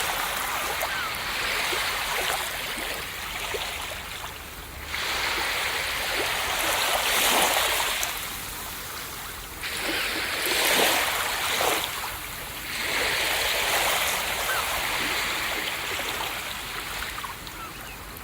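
Ocean waves breaking on a beach, the surf swelling and washing in surges a few seconds apart with brief lulls between.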